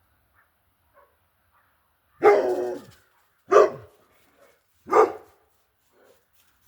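A dog barking three times, the first bark longer than the other two.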